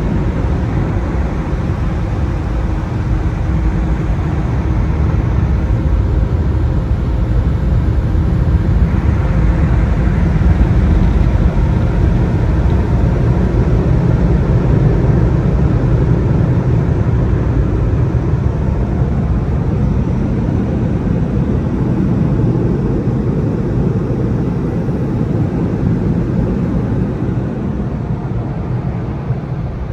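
Mini tunnel car wash equipment running on a car: a loud, steady rush of machinery noise with a low hum, dying away in the last few seconds as the wash finishes.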